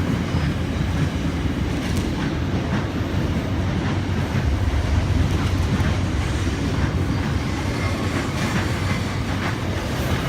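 Sydney Trains Waratah electric suburban train pulling out of the station: a steady low rumble with scattered clicks.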